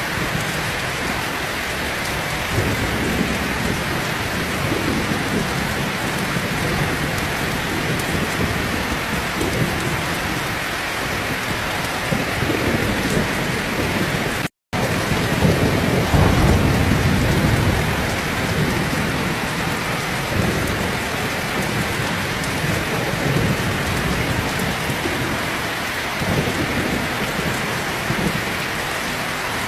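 Heavy rain pouring steadily, with low rolling thunder rumbling in the background, the loudest roll about halfway through. The sound cuts out completely for a split second just before that.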